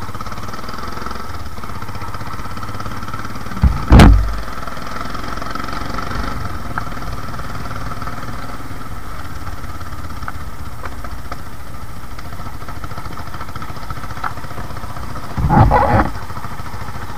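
Royal Enfield Himalayan motorcycle's single-cylinder engine running steadily as the bike rides along at low speed, with two brief loud bursts, about four seconds in and near the end.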